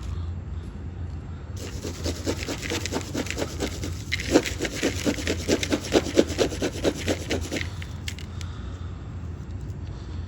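Dry pigeon feed of grains and seeds rasping and rustling under quick, rhythmic strokes, about four a second. It starts about a second and a half in and stops a couple of seconds before the end.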